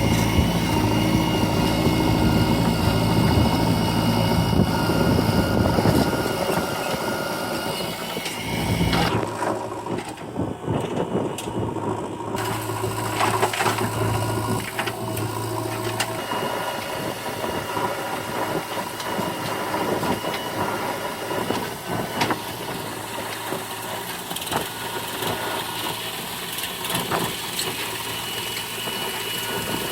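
JCB 3DX backhoe loader's diesel engine running steadily, with scattered knocks and clanks. The sound changes abruptly about nine seconds in, losing its deep hum and going quieter.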